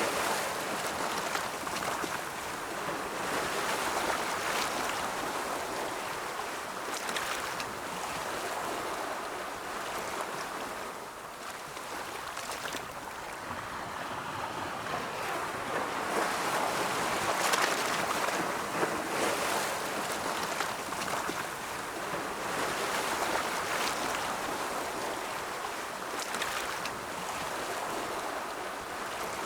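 Ocean waves breaking and washing ashore, a continuous surf hiss that swells and eases every several seconds.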